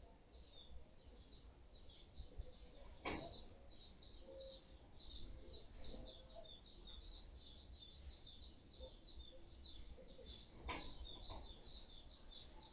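Faint, continuous high chirping of small animals in the background, many short chirps overlapping. Two sharp clicks stand out, one about three seconds in and one near the end.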